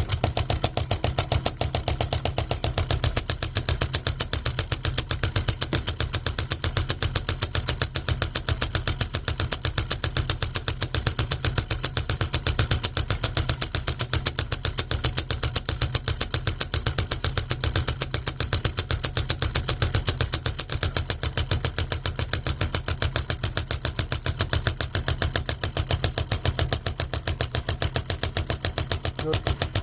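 Homemade solenoid engine running: its coil-driven magnet plunger clatters back and forth in a syringe cylinder, turning a crankshaft in a fast, even rhythm of several strokes a second.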